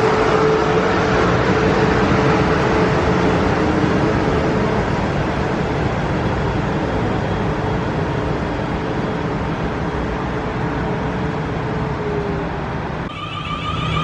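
Four-carriage South Western Railway electric train pulling out of the station: rumbling running noise with a steady whine, fading slowly as it leaves. Near the end it cuts abruptly to a quieter sound with a few steady tones.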